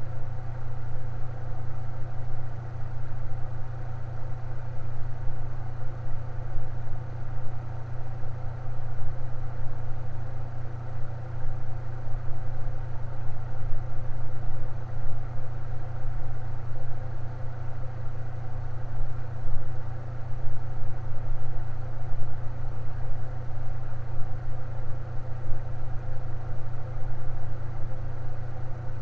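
Electric fan running steadily: a strong low hum with fainter steady whirring tones above it, unchanging throughout.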